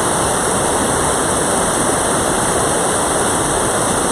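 Mountain stream water rushing steadily: a loud, even wash of running water.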